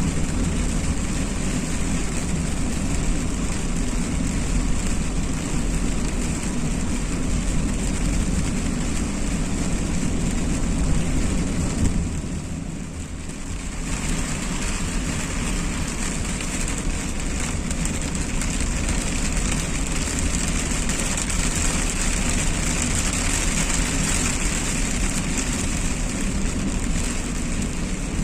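Steady noise of a car driving in the rain: engine and tyres on a wet road with the hiss of rain, dropping briefly a little before halfway through.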